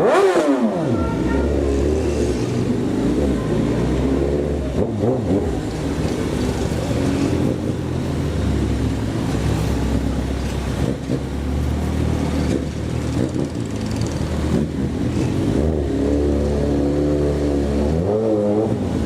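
Vehicle engine running loud and revving: the revs drop away in the first second, hold fairly steady, then rise and fall again near the end.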